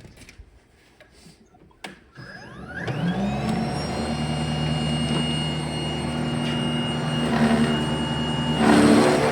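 EGO Power+ 56-volt cordless single-stage snowblower: a click, then its electric motor and steel auger whir up to speed in a rising whine about two seconds in and run steadily. Near the end a louder rush as the auger bites into snow.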